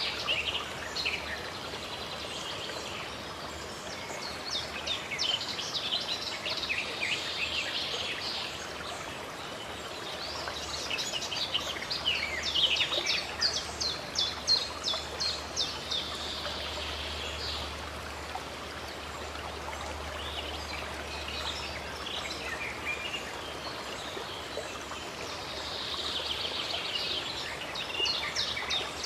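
Running water of a stream or waterfall, a steady rush, with songbirds singing in quick, rapid high chirping phrases that come and go every few seconds.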